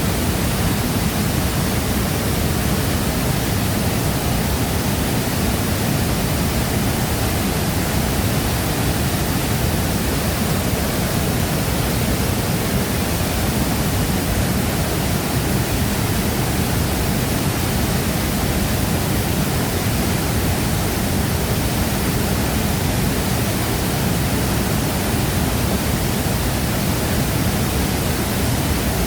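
Large waterfall crashing down in a steady, unbroken roar of water, deepest in the low end.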